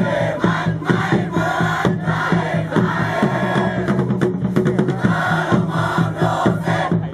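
A large group of voices chanting and singing in unison over a steady beat of about three strokes a second.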